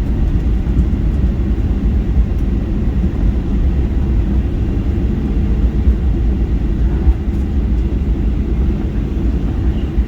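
Steady low rumble of a Boeing 737's engines and airflow heard inside the passenger cabin during the landing.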